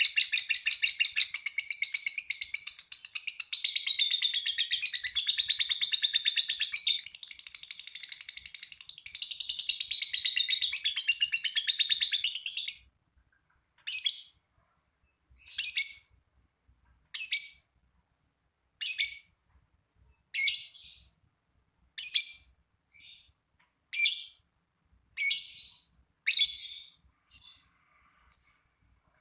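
Lovebird singing a long 'ngekek': a fast, unbroken high-pitched chattering trill that stops about 13 seconds in. After that it gives short single chirps, one about every second and a half.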